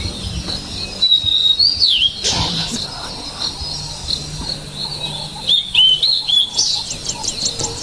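Wild birds chirping and calling in short, repeated notes that glide up and down, over a low background rumble, with a brief rush of noise about two seconds in.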